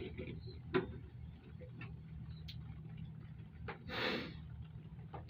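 Scattered clicks and taps of a hand tool and bolts as a luggage rack is bolted onto a motorcycle sissy bar, the bolts going in stiffly. The sharpest click is about a second in, with a short rustling scrape about four seconds in.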